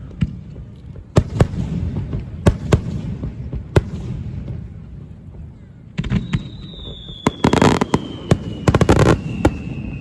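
Fireworks display: sharp bangs of aerial shells bursting over a low rumble of echoes. About six seconds in, a long whistle falls slowly in pitch while quick clusters of crackling pops go off.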